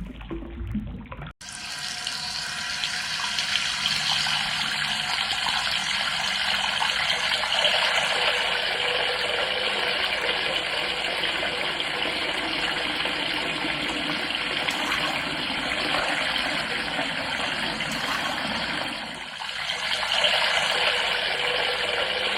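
Water running steadily from a kitchen tap into a sink, a continuous rushing hiss that starts abruptly and briefly eases off near the end before running again.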